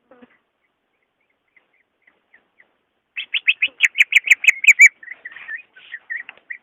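Green leafbird (cucak ijo) singing: a few faint short notes, then about three seconds in a fast run of loud repeated notes, roughly eight a second, going on into varied warbling phrases.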